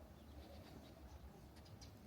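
Near silence with a few faint, high chirps from small birds, most of them near the end, over a low steady rumble.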